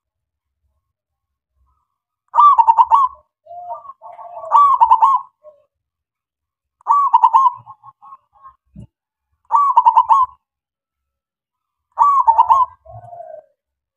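Male zebra dove (local perkutut) cooing: five short rolling coo phrases, each about half a second long, spaced about two and a half seconds apart, some followed by softer, lower notes.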